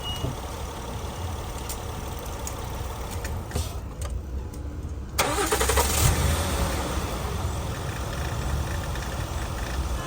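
2009 Acura MDX's 3.7-litre VTEC V6 cranking and catching about five seconds in, then running steadily at idle. The owner says this engine sometimes fails to start.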